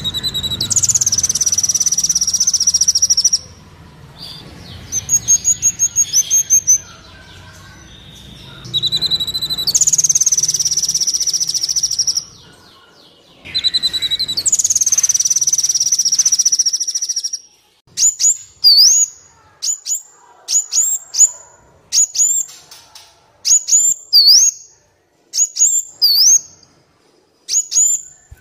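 Recorded songbird song from a Kolibri Wulung sunbird training track mixed with fill-in songs. It begins with several long, high, buzzy trills of two to three seconds each. From about two-thirds of the way in, it switches to a run of short, sharp, repeated calls, roughly one a second.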